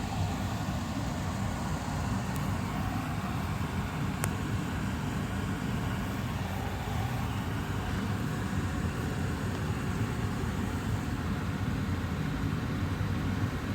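Austin Air HealthMate air purifier's fan running steadily, an even rush of air. A single faint click comes about four seconds in.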